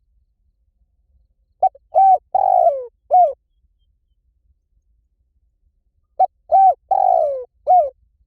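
Spotted dove cooing: two phrases about four and a half seconds apart. Each phrase is a quick lead-in note, a short coo, a long drawn-out coo falling in pitch, and a short closing coo.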